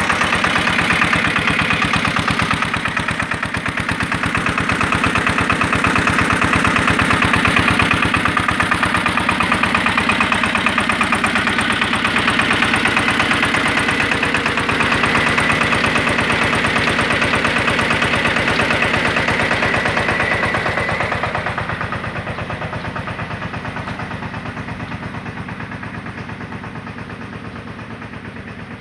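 Eicher 188 mini tractor's diesel engine running steadily with a fast, even chug while it drives a water pump. A faint high whine rides on it in the middle, and the sound grows gradually quieter over the last several seconds.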